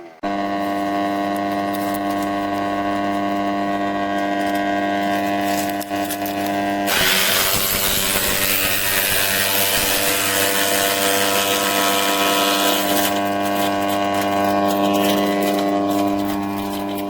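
Forest Master FM4DDE electric wood chipper with its 2800 W motor: the motor starts abruptly and runs with a steady hum. About seven seconds in, a loud grinding noise of wood being chipped joins it for several seconds, then tapers off, leaving the motor running.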